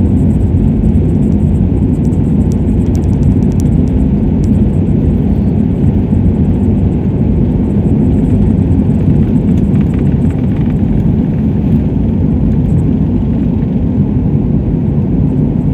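Airliner's engines and airflow heard from inside the cabin during take-off: a loud, steady low rumble.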